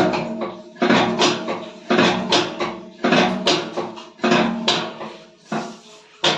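The drum of an IFB front-load washing machine knocking and clanking as it turns: loud metallic knocks with a ringing tail, in pairs about half a second apart, repeating a little more than once a second. The knocking is the sign of a broken drum bracket (spider arm).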